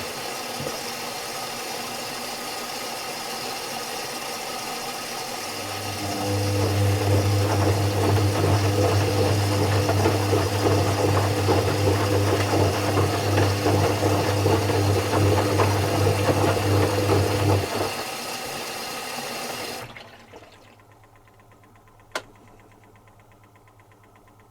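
Zanussi FC1000 compact washing machine running mid-cycle: water noise with a steady electrical hum (pump or inlet valve) that cuts out, comes back a few seconds later and stops again. Near the end the machine goes quiet apart from a single sharp click.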